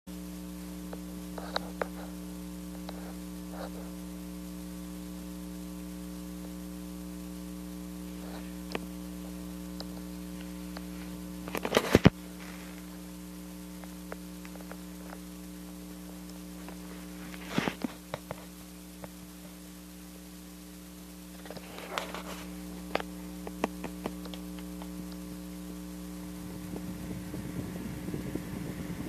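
Electric fan motor humming steadily, with a few sharp clicks or knocks, the loudest about twelve seconds in.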